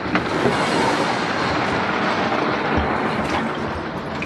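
Torrential rain falling steadily on a sailboat's deck and coachroof, an even hiss with a couple of light knocks.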